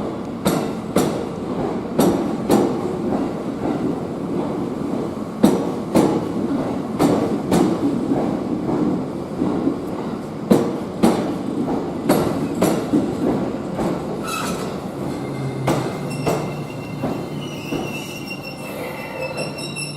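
Train rolling through the station, its wheels clacking over rail joints and points in sharp, often paired knocks. After about fifteen seconds the clacks thin out and a high-pitched wheel squeal with a low steady hum takes over.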